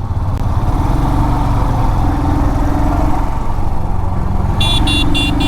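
Royal Enfield Himalayan's single-cylinder engine running steadily, with road noise. Near the end a vehicle horn beeps about five times in quick succession.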